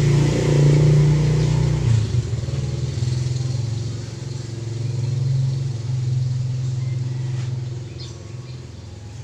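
Kawasaki GPz 400 motorcycle engine running with the revs rising and falling: loudest in the first two seconds, swelling again about five seconds in, then easing toward the end. It is running after being fuelled to test a hard-starting problem.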